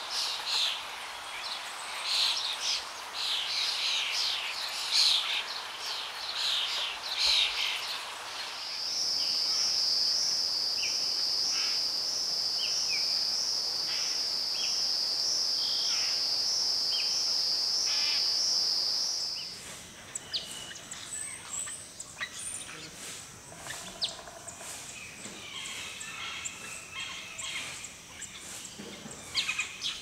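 Rainforest bird chorus: many quick high chirps, then a steady high-pitched insect drone with a few bird notes over it for about ten seconds, then scattered bird calls after it stops abruptly.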